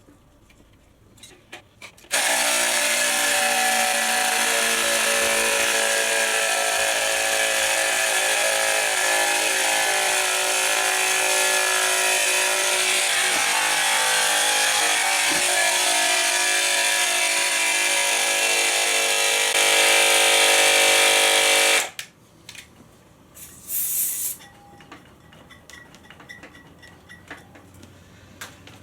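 Electric air compressor running steadily for about twenty seconds as it inflates a motorcycle tyre, a buzzing pitched drone that starts about two seconds in and cuts off suddenly. A short hiss follows a couple of seconds later.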